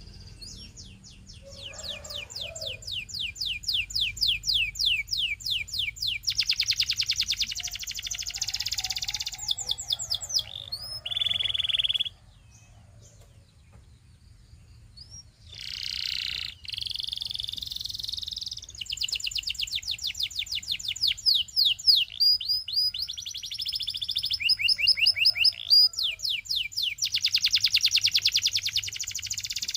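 Canary singing: long, rapid trills of quickly repeated notes, with a pause of about three seconds a little before halfway, after which the song resumes with more trills.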